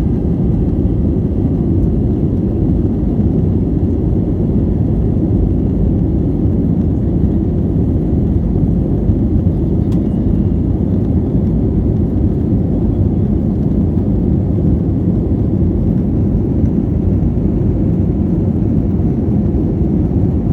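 Airplane in a climb: a steady low rumble of engines and rushing air that holds level and does not change.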